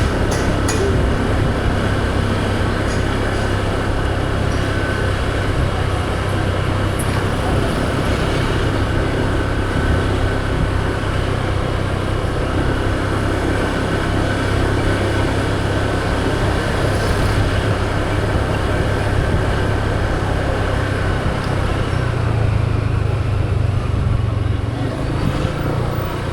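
Motor scooter engine running steadily under way, with wind and road noise on a handlebar-mounted microphone and other traffic around; the engine hum grows louder a little before the end.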